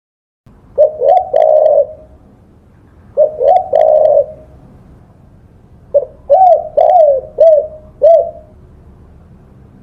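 Spotted dove (tekukur) cooing: two short coo phrases, then a longer run of about six coos near the end.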